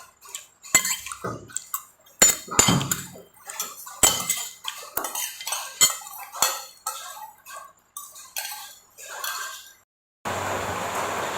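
A spoon clinking and scraping against a dish of fried rice in quick, uneven strokes. About ten seconds in, the clinks stop and a steady rushing noise takes over.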